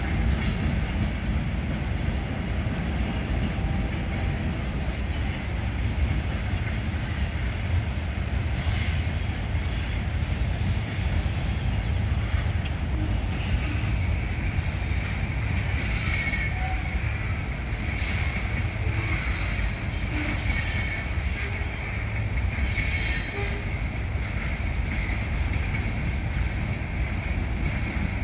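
Long freight train rolling past with a steady low rumble of wagons on the rails. From about halfway, the wheels squeal on and off in high, thin tones.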